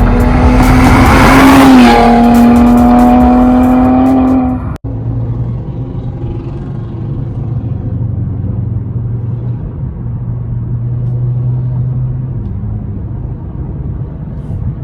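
Car engine held at high, steady revs with a broad hiss over it. About five seconds in it cuts off abruptly to a lower, steady engine rumble.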